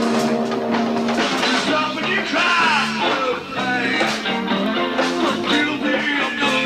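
Live rock band playing: electric guitar over bass guitar, with drum kit and bongos keeping a steady beat.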